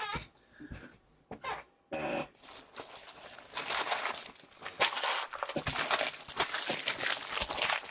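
Plastic trading-card pack wrappers crinkling and rustling as they are handled. The crinkling starts about two seconds in and keeps on, dense and crackly.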